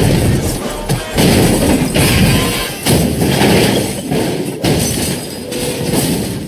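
Action film soundtrack: loud crashes and heavy impacts over music, with several sudden hits about a second in, near three seconds and past four seconds, fading near the end.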